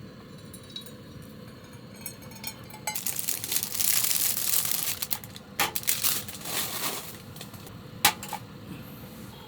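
Dense rattling and clinking of small hard objects for about four seconds, starting about three seconds in, then a single sharp click and a couple of fainter ones.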